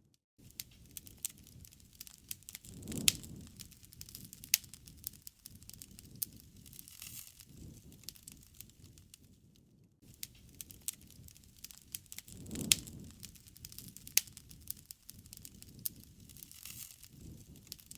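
Wood fire crackling: a steady scatter of sharp snaps and pops over a soft low rumble of burning, with two louder pops, about three seconds in and about two-thirds of the way through.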